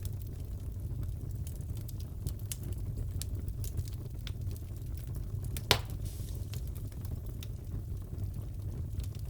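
Fire crackling in a fireplace: a steady low rumble with many small crackles, and one louder pop a little past halfway.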